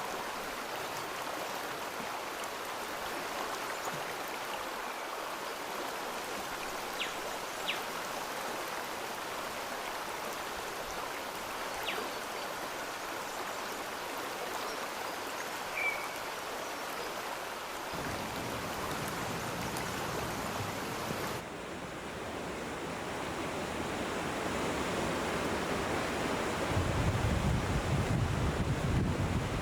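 Steady rush of flowing water from a stream, with a few faint clicks along the way. Near the end, low wind rumble buffets the microphone.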